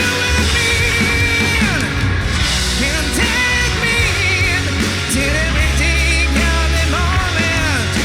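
Live rock band playing a loud passage with bass and drums. A high lead melody bends and wavers in pitch over them.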